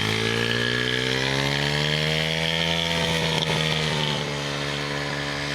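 Small motorcycle engine revving: its pitch climbs over the first three seconds, then eases off and settles to a steady run about four seconds in.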